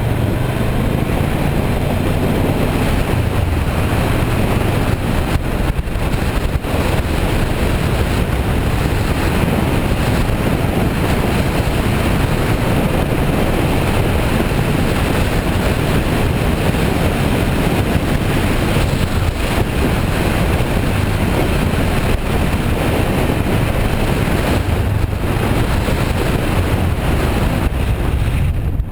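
Heavy wind noise on the microphone of a moving 2008 Kawasaki Versys 650 motorcycle, with the bike's parallel-twin engine running steadily underneath.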